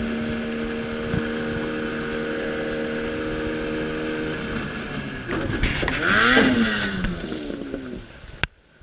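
An engine running at a steady speed, then a louder, rougher stretch with wavering pitch about six seconds in. It drops away abruptly near the end.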